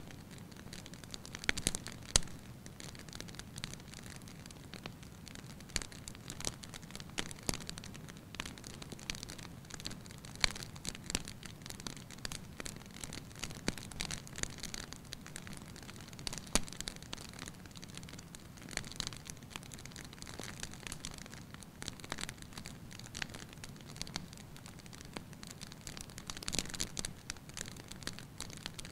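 Wood fire burning in a fireplace: a steady soft hiss under frequent irregular crackles and sharp pops, a few louder snaps among them.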